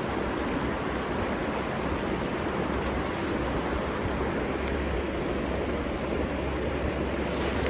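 River water flowing, a steady, unbroken rushing noise.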